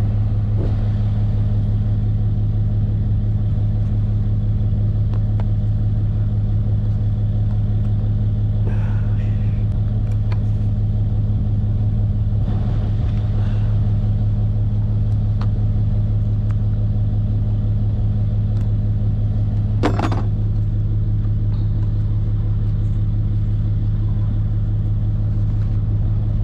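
An engine running steadily at a constant speed, a low, even hum. A single sharp knock about twenty seconds in.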